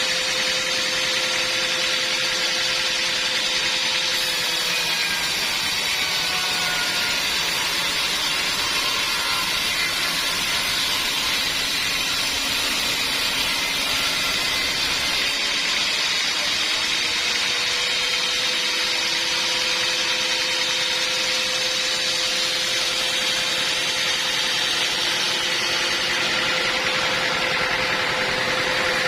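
Sawmill band saw running steadily, a loud even noise with a held hum that drops lower in pitch for a stretch in the middle and then comes back up.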